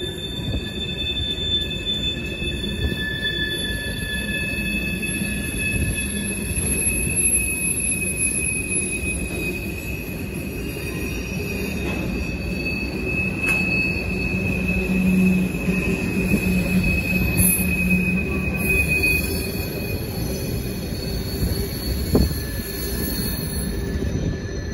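Freight cars of a passing manifest (mixed freight) train rolling by with wheel squeal: several steady high-pitched squeals that hold, fade and give way to others, over a continuous rumble of wheels on rail.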